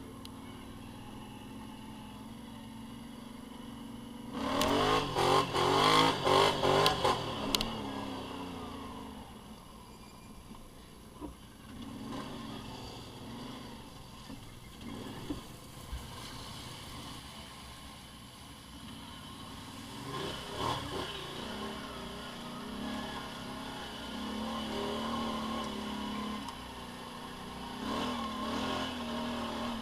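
Motorcycle engines revving, with a loud burst of rising and falling revs about four seconds in that lasts a few seconds. Quieter engine sound follows and swells again twice later on.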